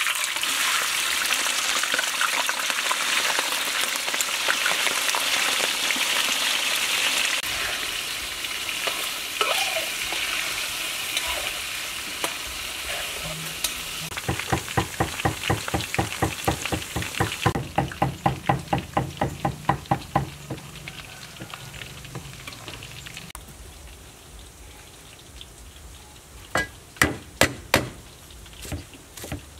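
Raw chicken pieces dropped into hot oil in a wok: loud sizzling frying that slowly dies down. About halfway through, a metal spatula stirs and scrapes in the wok at about four strokes a second. Near the end, a handful of cleaver chops on a wooden chopping board.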